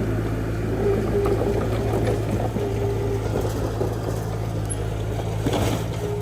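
Diesel engine of earthmoving machinery running steadily under load, with a dense clattering noise over it and a short louder surge near the end.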